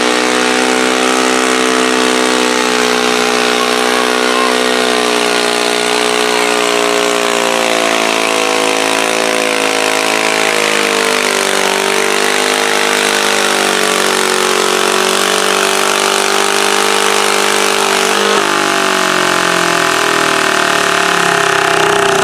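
A garden pulling tractor's engine running loud and steady, its pitch wavering and sagging a little midway, with an abrupt change in tone near the end.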